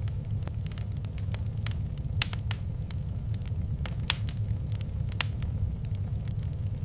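Wood fire in a fireplace crackling over a steady low rumble, with frequent small pops and a few sharper snaps about two, four and five seconds in.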